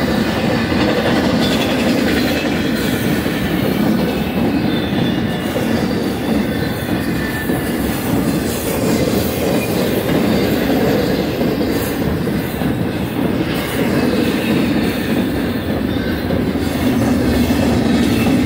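Fast intermodal freight train's flatcars, loaded with truck trailers, rolling past at speed: a steady rumble and clatter of steel wheels on rail, with a faint high wheel squeal now and then.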